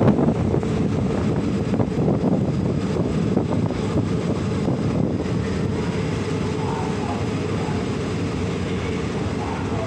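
Passenger train running on the rails, heard from aboard a carriage: a steady rumble of wheels and running gear that eases slightly as the train slows into a station.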